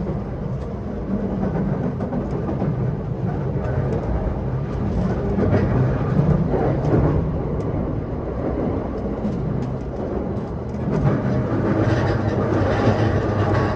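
Yokosuka Line E235-1000 series electric train running on the line, its wheels rumbling on the rails with scattered clicks. The rumble grows louder twice, about six seconds in and again near the end.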